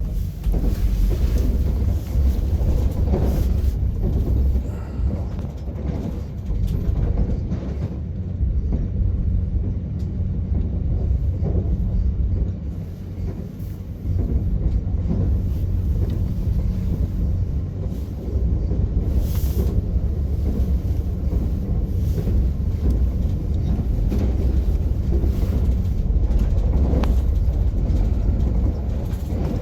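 Moving train heard from inside the carriage: a steady low rumble of wheels on the track, with a few short knocks now and then.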